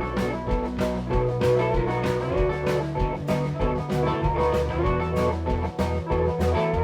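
A blues-rock band playing an instrumental passage: guitar lines over held bass notes and a steady drum beat.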